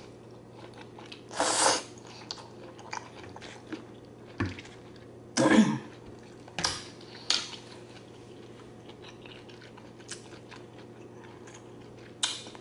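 Close-up eating sounds: wet chewing and mouth noises over creamy zucchini noodles in Alfredo sauce with shrimp. Two louder slurps come about 1.5 and 5.5 seconds in, among scattered short clicks.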